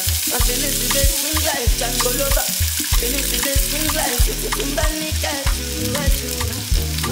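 Diced carrots, green pepper and onion sizzling in a hot nonstick frying pan as a spatula stirs them, with eggs frying alongside. Background music with a steady beat plays underneath.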